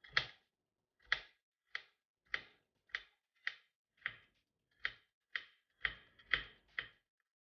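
Kitchen knife chopping vegetables on a cutting board: about a dozen separate strokes, a little under two a second.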